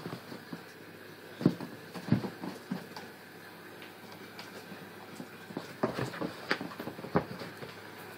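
Boston terrier puppy playing with a ball: irregular thumps and knocks, a few about a second and a half in and a denser cluster near the end.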